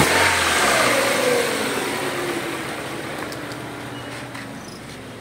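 The 2001 Ford Lynx's engine comes down from a rev, its pitch and loudness falling over the first couple of seconds as it settles into a quieter, steady idle. This follows a semi-overhaul meant to cure its smoking, misfiring and hard starting.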